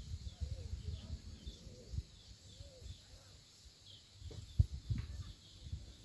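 Birds calling in a steady repeating rhythm, short arched notes about every half second to a second, over a low rumbling noise. A couple of sharp knocks come about four and a half seconds in.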